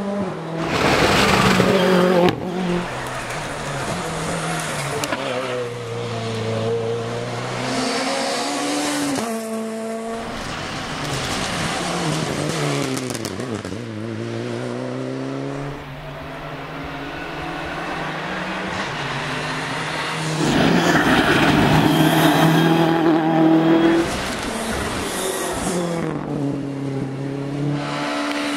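Rally cars at speed on a test stage, one after another: engines revving hard, the pitch climbing and dropping with each gear change and lift, with the loudest passes about a second in and again about twenty seconds in.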